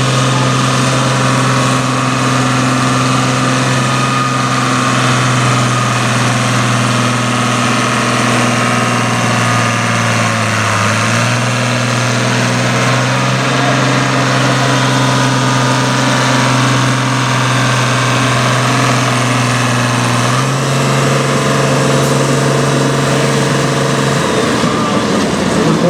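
Farm tractor engine running hard at steady revs under load while pulling the sled in a tractor pull. Its pitch sags briefly about halfway through, shifts again later, and falls away near the end as the run finishes.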